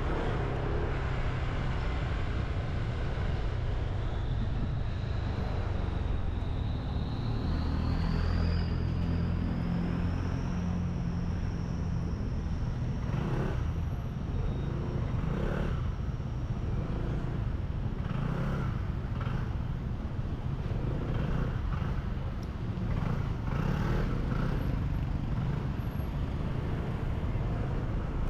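Motorbike engine running under way, with wind rumbling on the action-camera microphone. A thin high whine rises over several seconds near the start, then holds steady for a while before fading.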